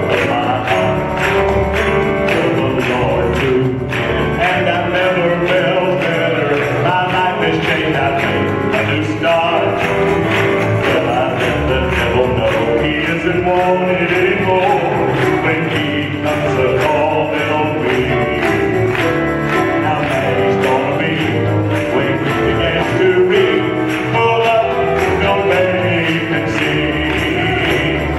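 Live church band playing an upbeat gospel song, with a tambourine jingling throughout.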